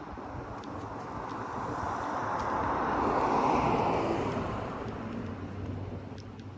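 A car driving past, its road noise swelling to a peak about three and a half seconds in and then fading.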